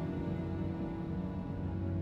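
Slow orchestral music, sustained low chords held with a slight change near the end.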